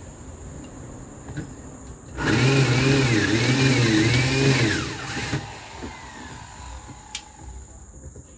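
Electric drill running for about three seconds, its motor pitch wavering up and down under load as the bit bores a hole through the freezer's casing.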